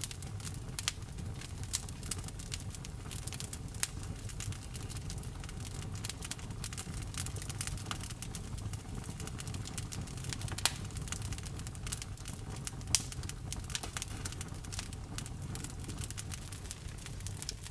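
Wood fire burning, crackling with frequent sharp snaps and pops over a steady low rumble, with a few louder pops standing out.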